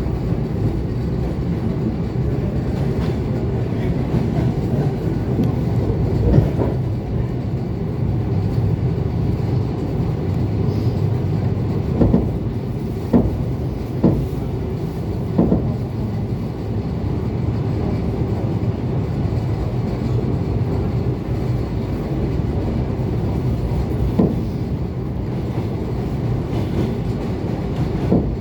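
ET2 electric multiple unit running along the track: a steady low rumble of wheels on rail, with a few sharp knocks of the wheels striking rail joints scattered through it.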